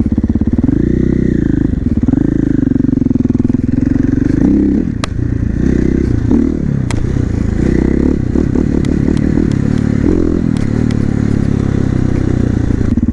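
450 supermoto's single-cylinder four-stroke engine under way, revving up and falling back twice in the first few seconds. It then runs on and off the throttle in choppy bursts through the middle before settling steady again.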